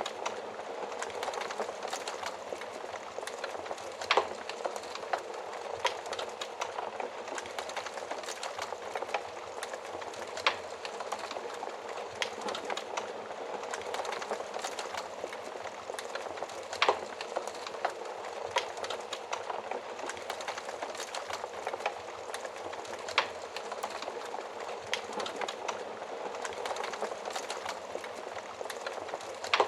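Wood fire burning in an oven fireplace: a steady hiss of flames with constant small, irregular crackles and a few louder pops spaced several seconds apart.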